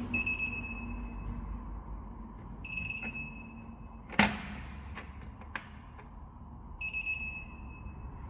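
Wheel balancing machine's electronic beeper sounding three times, each a steady high beep of about a second and a half that fades out, at the start, just under three seconds in and near the end. A sharp metallic knock sounds between the second and third beeps.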